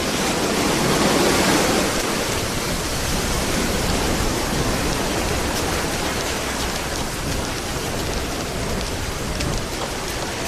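Ocean waves breaking and washing up the beach close by: a steady rushing hiss of surf, swelling slightly about a second in.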